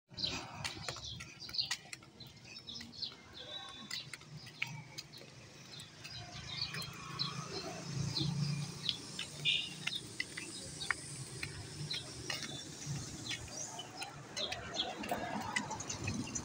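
Birds chirping in many short, scattered calls over a low, steady outdoor background.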